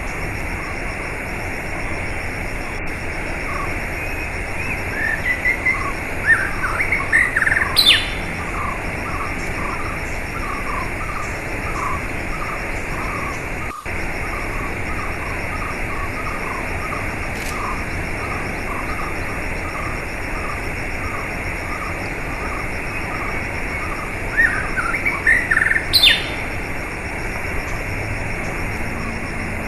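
Steady rush of flowing water with small birds chirping over it. A run of short repeated chirps goes through the middle, and a louder twittering phrase comes twice, about a quarter of the way in and near the end.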